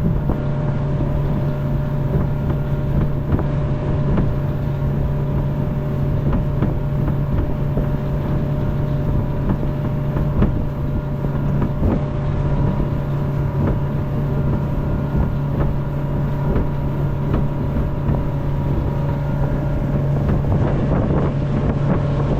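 Motorboat engine running steadily while underway, a constant hum that holds one pitch throughout, with wind buffeting the microphone.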